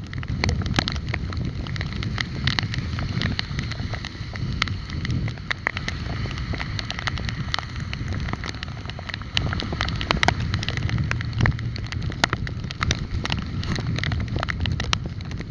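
Wind buffeting the microphone of a camera on a moving bike, with frequent sharp rattling clicks from the ride.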